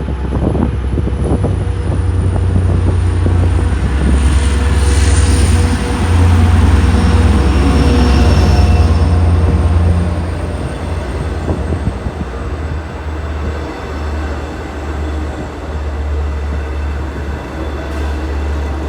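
A passing train with a heavy low rumble, loudest in the middle, then easing off about halfway through, with a faint high whine that slowly falls in pitch.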